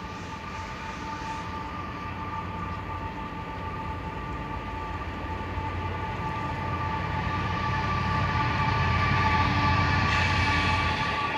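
A train approaching, its low rumble growing steadily louder, with two steady high tones running through it.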